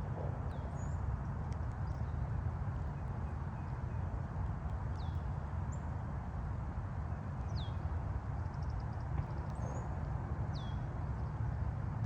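Steady low rumble of distant highway traffic under outdoor hiss. Over it, a bird gives a short down-slurred whistle four times, roughly every two and a half seconds, with a few faint high chips between.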